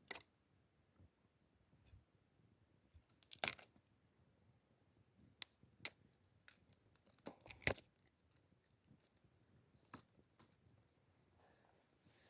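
Campfire crackling: sparse, sharp pops and snaps of burning wood, with a quick cluster of louder pops about seven seconds in.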